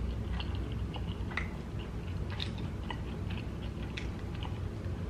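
Close-miked chewing of a crispy fried egg roll: scattered soft mouth clicks and light crunches.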